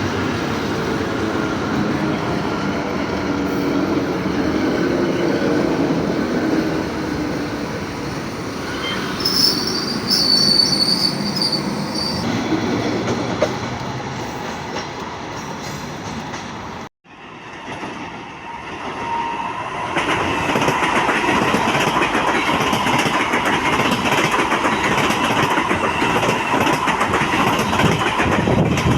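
Trains running past on the rails, with a high wheel squeal about a third of the way in. The sound cuts out abruptly a little past the middle, then another train is heard passing, louder and with a steady tone over its running noise.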